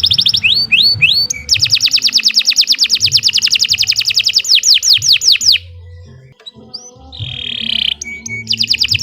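Domestic canary singing long, rapid trills, each a fast run of repeated sweeping high notes. The song breaks off a little past the middle for about a second and a half, gives a short buzzy note, then starts a new trill near the end.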